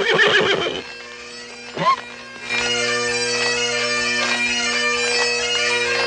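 A horse whinnies at the start. About two and a half seconds in, bagpipes strike up: steady drones under a chanter playing a tune, the music that is spooking the stock.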